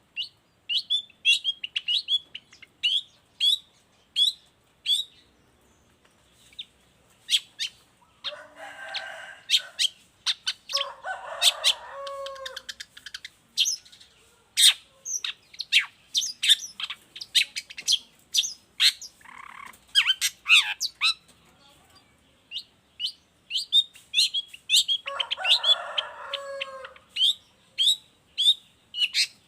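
Long-tailed shrike (cendet) in full song: rapid runs of short, sharp chirps, broken several times by harsher, rasping calls of about a second each.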